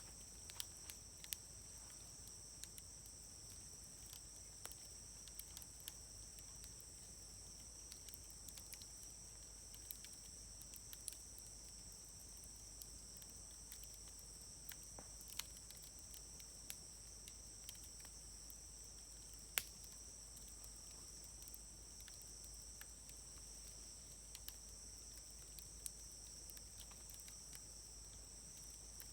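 Wood fire crackling with scattered small pops and one louder pop about twenty seconds in, over a steady high-pitched chirring of crickets or other insects.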